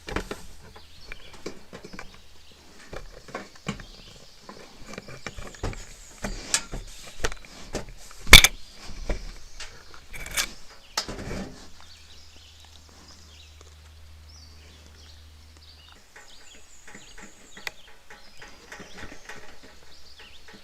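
A black bear clambering on a platform feeder: irregular knocks, scrapes and thumps, with one loud bang about eight seconds in and a quieter spell from about twelve to sixteen seconds.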